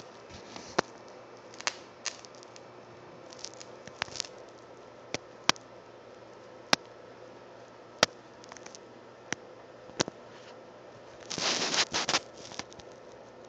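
Steady electrical hum of a rewound microwave-oven transformer driving high current through a short length of wire, with scattered sharp crackles and pops and a denser burst of crackling near the end as the wire heats.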